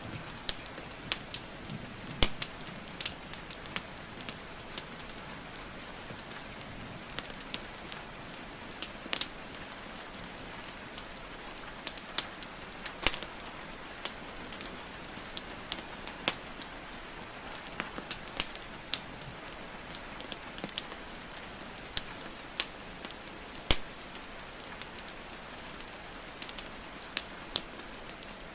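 Wood fire crackling and popping, with irregular sharp snaps, over a steady hiss of rainfall.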